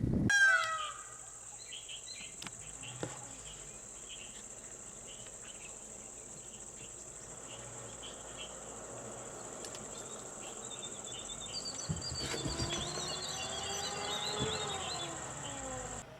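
Insects droning steadily on one high note, with scattered bird chirps that grow busier in the second half. A low pitched hum swells and fades between about twelve and fifteen seconds in.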